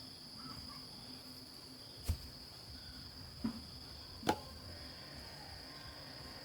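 Steady high-pitched insect chirring, with three sharp knocks in the middle, the last two close together.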